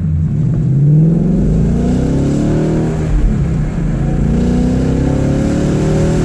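2015 Ford Mustang GT's 5.0 V8, fitted with an H-pipe and two-chamber Flowmaster mufflers, accelerating hard through first gear, upshifting about three seconds in, and pulling through second gear toward about 5,000 rpm. The exhaust note rises in pitch, drops at the shift, then rises again, heard from inside the car with both windows down.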